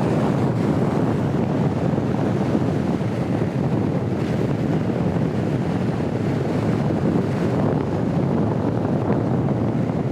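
Strong wind buffeting the microphone, a steady rushing noise with no let-up, with sea swell washing against the rocky shore beneath it.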